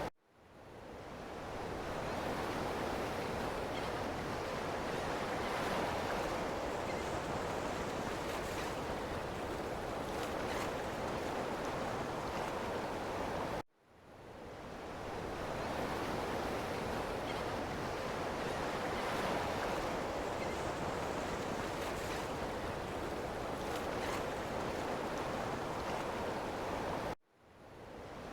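Ocean waves washing in a steady, even surf rush. The sound cuts out suddenly twice, about 13 seconds apart, and fades back in each time.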